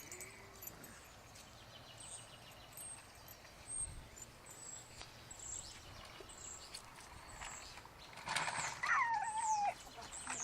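Faint animal calls: short, very high chirps every second or so, then near the end a louder call that falls in pitch for about a second.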